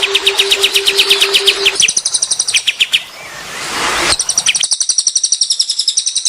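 Songbird song made of rapid trills, fast runs of short repeated notes, with a steady low hum under the first part. A rising rushing noise comes about three seconds in, then higher, faster trills take over.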